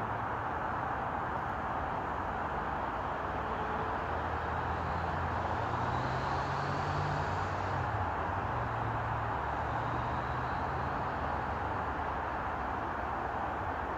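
Steady outdoor rushing noise with a low engine-like hum underneath that shifts in pitch about halfway through, like a distant motor vehicle.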